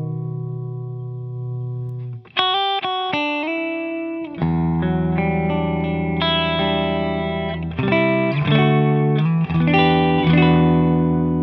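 Fender Stratocaster electric guitar played through a Walrus Audio Deep Six V3 compressor pedal into a 1974 Marshall JMP 100-watt Super Lead amp. A held chord rings out, a quick run of picked notes comes about two seconds in, and then long sustained chords change every second or so.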